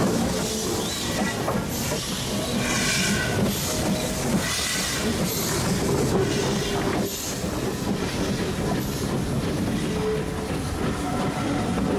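Steam-hauled train rolling past, its carriage wheels clattering over the rail joints.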